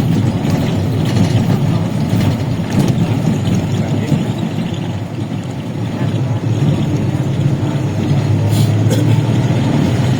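An engine running steadily, with a low steady hum that comes up more clearly in the last couple of seconds.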